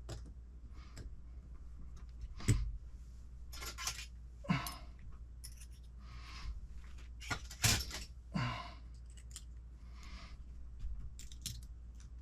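Small hobby-kit parts and tools being handled on a workbench: scattered clicks and rustles with a few sharper knocks, over a steady low hum.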